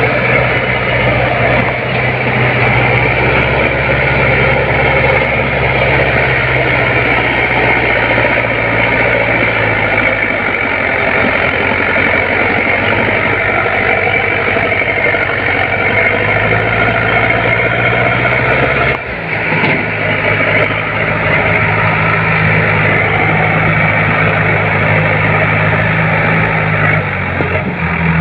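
Sonalika DI 745 tractor's diesel engine running while pulling a fully loaded trolley. The engine speed drops and rises a few times, with a brief break about two-thirds of the way through.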